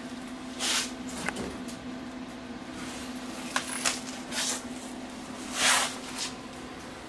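Short bursts of arc welding crackle, each under half a second, as stitch welds are tacked onto a truck bed. The loudest come about a second in and near the end, with a few smaller crackles and clicks between them, over a steady low hum.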